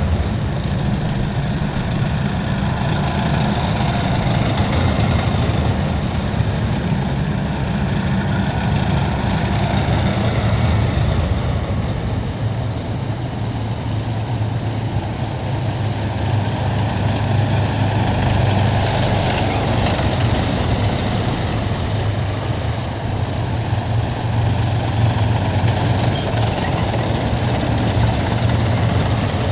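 Heavy military vehicles driving past in a column, their engines making a loud, steady low rumble. A thin high whine joins in about two-thirds of the way through.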